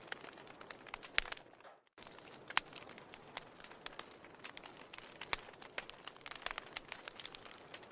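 A wood fire in a fireplace crackling, with a steady hiss and frequent irregular sharp pops. About two seconds in, the sound fades briefly to silence and then starts again.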